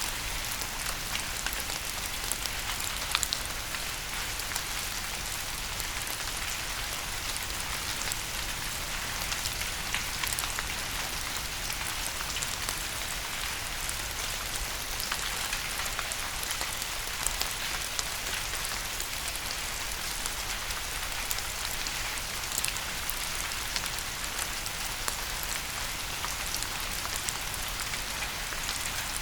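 Steady rain falling on a surface: an even hiss with scattered sharp ticks of individual drops.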